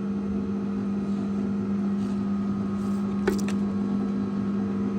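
An engine running at a steady, unchanging speed, with a single sharp knock a little over three seconds in.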